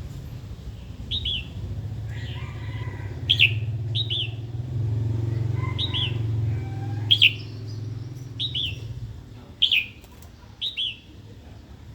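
Female red-whiskered bulbul giving short, sharp, hooked call notes, often in quick pairs, repeated about every second. A low engine rumble rises and fades behind it, from about two to nine seconds in.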